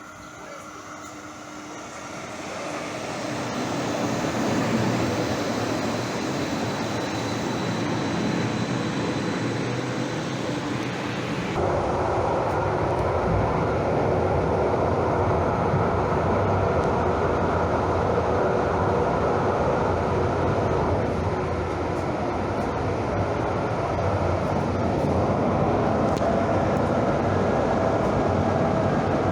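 Train running on rails, with a steady rumble and rolling noise that builds over the first few seconds as it picks up speed. About eleven seconds in the sound abruptly becomes fuller and deeper, and then holds steady.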